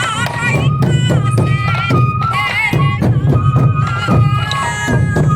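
Sansa odori festival music: bamboo flutes playing a high, ornamented melody over a steady beat of many taiko drums.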